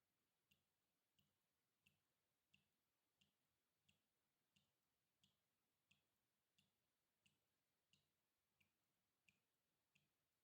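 Water dripping, very faint, in a steady even rhythm of about three drops every two seconds, each drop a short plink with a soft low thud under it.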